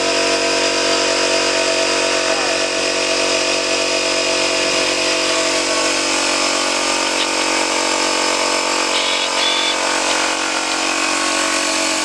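A machine running steadily, a constant mechanical hum and whine that holds the same pitch throughout.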